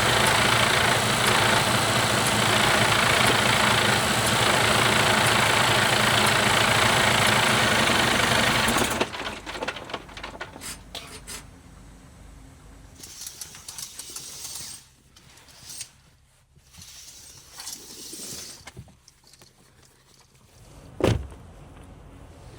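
A semi-truck's diesel engine runs steadily, then cuts off suddenly about nine seconds in. After that there are small clicks and rustles and one sharp knock near the end.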